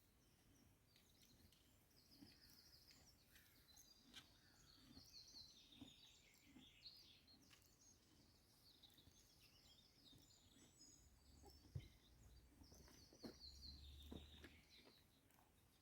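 Faint small birds chirping and trilling, with a few soft knocks and a low rumble near the end.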